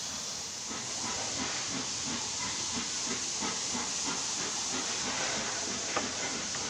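Narrow-gauge steam locomotive hissing steam, with a regular beat about twice a second. There is one sharp click near the end.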